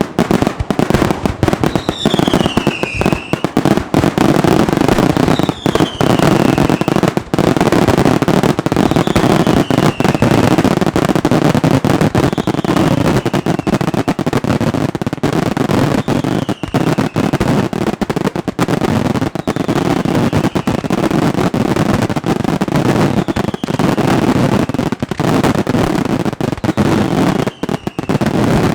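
Dense, rapid barrage of firework bangs and crackles, with a short falling whistle recurring about every three and a half seconds and growing fainter.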